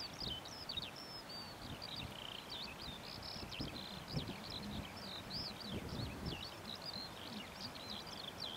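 A songbird singing continuously, a fast stream of high, sweeping, warbling notes, over low, irregular rumbling and thumps. The landing 747 is too far off to be picked up.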